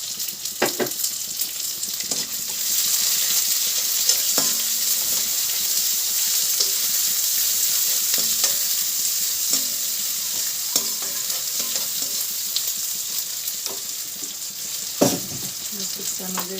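Onion frying in hot oil in a pan, sizzling steadily as it is stirred, the sizzle growing louder about three seconds in. A spoon scrapes and knocks against the pan every few seconds, with one louder knock near the end.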